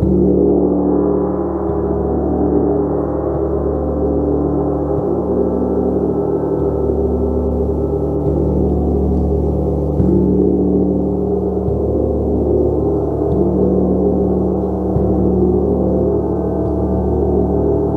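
Gong played continuously with soft mallet strokes every few seconds, keeping a dense, sustained wash of low, overlapping tones ringing at an even loudness.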